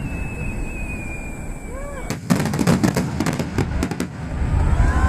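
Fireworks finale barrage: a high whistle that slowly falls in pitch for about two seconds, then a dense run of rapid bangs and crackling bursts.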